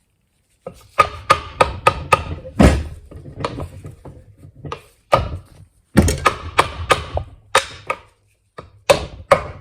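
Sharp knocks and taps on the metal parts of a small ATV engine being taken apart. They come in quick runs of three or four, with single harder knocks between, and some ring briefly.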